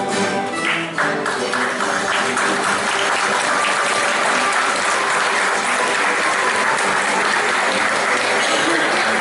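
Music with plucked strings, and about a second in an audience breaks into steady applause, with faint music still under it.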